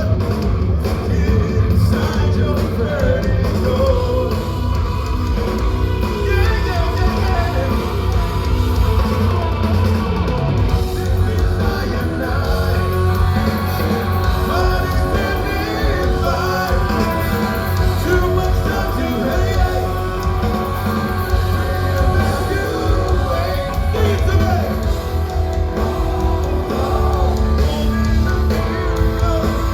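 Live progressive metal band playing in a concert hall, with a singer, distorted electric guitar and heavy bass and drums, recorded from the audience.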